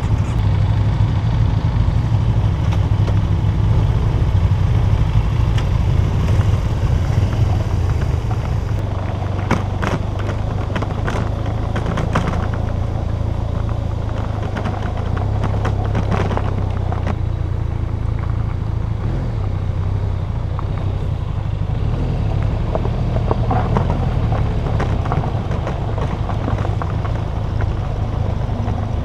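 Motorcycle engine running steadily while riding, with scattered clicks and rattles that are thickest from about ten seconds in.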